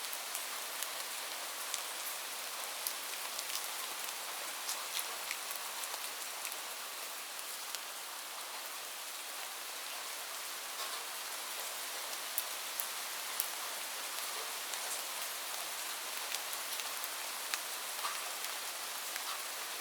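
Steady rain with frequent sharp drops ticking on a hard surface, a continuous hiss with no pauses.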